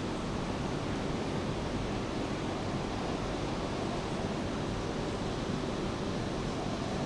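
Steady, even rush of falling rain, with a faint steady hum underneath.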